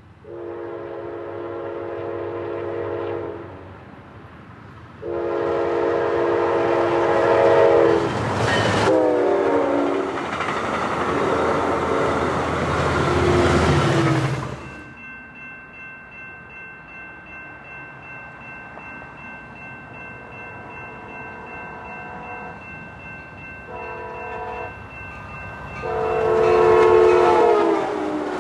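Amtrak San Joaquin passenger train sounding two long horn blasts, the second dropping in pitch as the locomotive passes, then the loud rush and clatter of the cars going by. After that comes a quieter stretch with faint steady tones and three more horn blasts, the last one long and falling in pitch.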